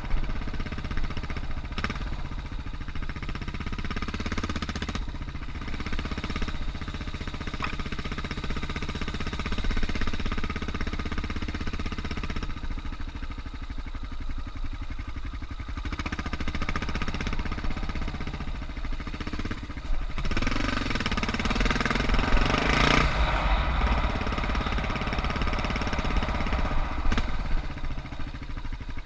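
Suzuki DR650's single-cylinder four-stroke engine running under way on a dirt trail, the engine note shifting with the throttle. It grows louder for a few seconds about two-thirds of the way through.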